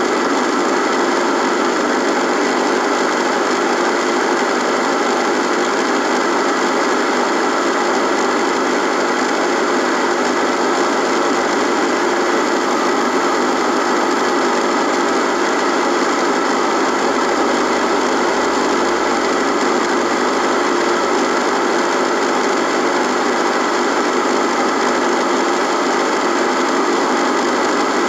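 Radio buzzing: a steady electrical buzz and hiss at an even level, without a break or any change.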